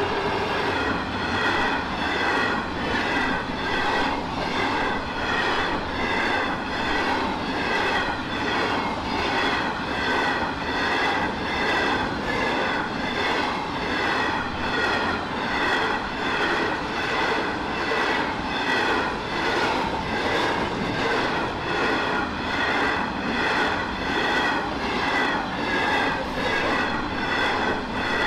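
Freight train of hopper wagons rolling past close by: the wheels clatter and rumble on the rails in a steady, even rhythm.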